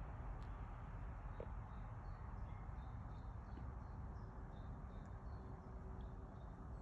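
Faint outdoor ambience with a low rumble of wind on the microphone. A small bird chirps in a run of short, high notes through the middle of the stretch.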